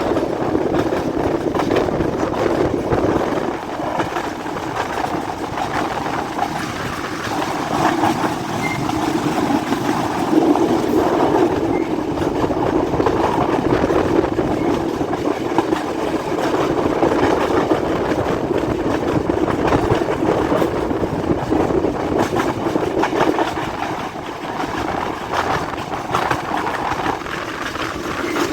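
Passenger express train running along the track: a steady rumble and rattle of the moving carriages, with many small clicks from the wheels on the rails.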